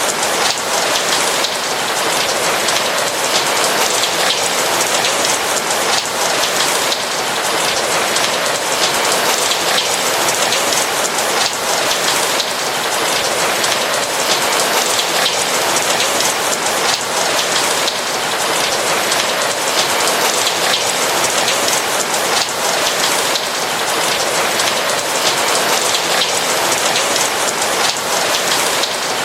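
Steady rain falling on a roof, a dense even patter of many drops.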